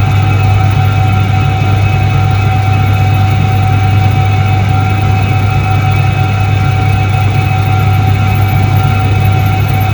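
Soviet Iset-3 washing machine from 1978 running with an unbroken, steady electric hum: a strong low drone with a clear higher whine above it.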